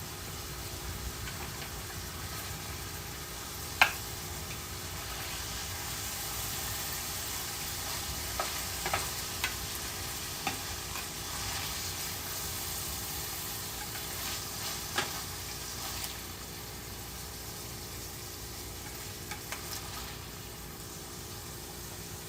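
Food sizzling in a frying pan, a steady hiss that swells a little through the middle, with scattered sharp clicks, the loudest about four seconds in.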